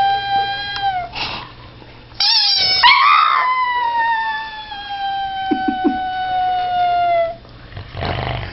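Pug howling: one long howl falls away and ends about a second in, a brief high squeal follows, then a second long howl that slowly sinks in pitch over about four seconds.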